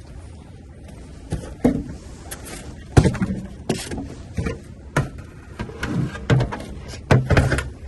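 Rummaging through items in a dumpster: irregular knocks, clunks and rustles as things are moved and handled, the loudest about three seconds in and again near the end.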